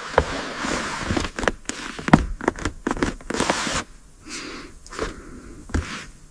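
Rasping scrape mixed with a run of sharp knocks and clicks, busier and louder for the first few seconds, then thinning out.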